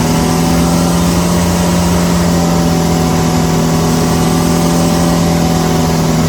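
A small tour boat's engine running steadily under way, a loud, constant drone that holds one pitch.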